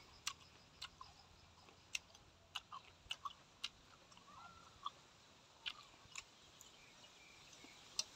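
Faint close-up chewing: scattered soft mouth clicks and smacks as a man eats, with gaps between them.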